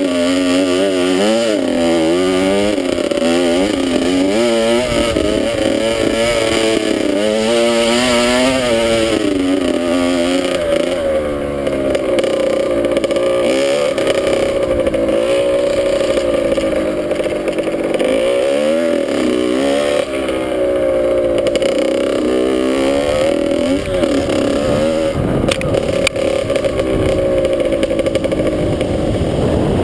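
Dirt bike engine running while riding, its pitch rising and falling again and again as it is revved and shifted through the gears, with a steadier high-revving stretch in the middle. A sharp knock comes a few seconds before the end.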